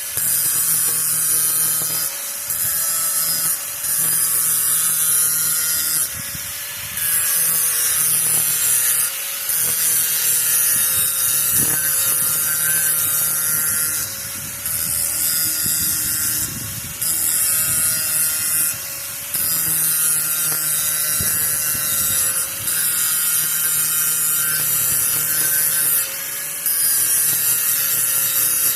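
Electric grinder running against the edge of a steel power-rake mower blade, a steady motor whine under a loud hiss of grinding metal, dipping briefly every few seconds.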